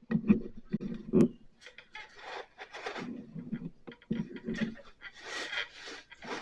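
Handling noise: scattered rubbing and scraping with a few sharp clicks, loudest about a second in.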